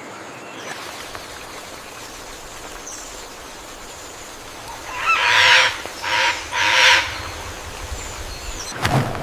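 Three loud, harsh calls from a large bird, about five to seven seconds in, over a steady background hiss, followed by a sharp sound near the end.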